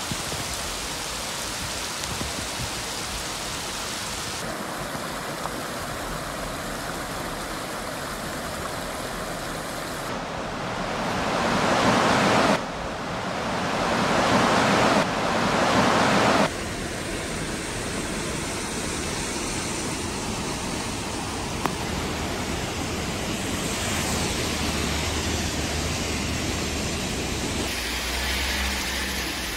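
Heavy rain hissing steadily on pavement. In the middle, floodwater rushing down a stairwell is louder for several seconds. Near the end, a car drives through the wet road with a low rumble.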